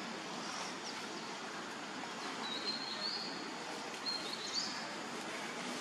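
Outdoor ambience with a steady hiss, over which a bird gives short high whistled calls, each stepping up in pitch, three or four times.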